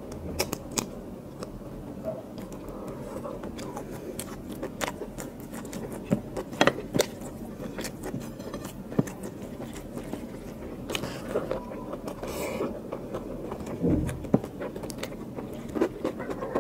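Close-miked eating of biryani by hand: wet chewing with many sharp mouth clicks and smacks, and fingers scraping and mixing rice on a plate. A brief, louder low sound comes about two-thirds of the way through.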